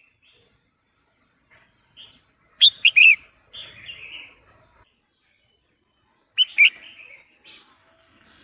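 Female red-whiskered bulbul calling: two short bursts of loud, sharp chirping notes about three and a half seconds apart, each followed by softer, harsher chattering notes.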